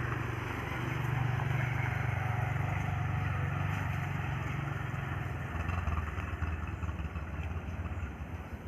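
Motorcycle engine running steadily, its pitch dropping lower about halfway through.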